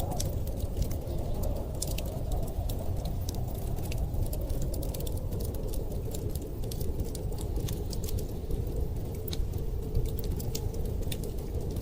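Wood fire crackling, with many small irregular pops and snaps over a steady low rumble of storm wind.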